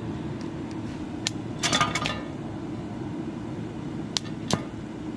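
Several sharp metal clinks and taps, a small cluster about two seconds in and single ones later, from metal pieces or welding rods being handled, over a steady low hum.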